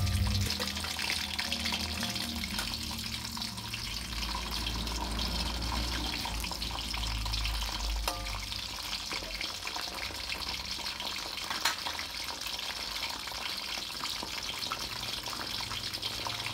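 Whole tomatoes, shallots, chilies and spring onion sizzling steadily in hot oil in a wok, with a single sharp tap of the spatula about three quarters of the way through.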